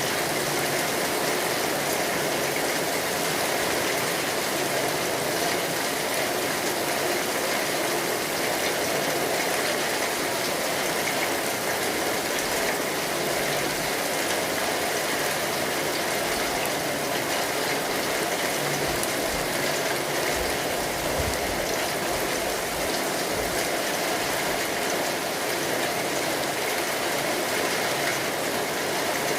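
Steady rainfall, an even hiss of many drops without a break.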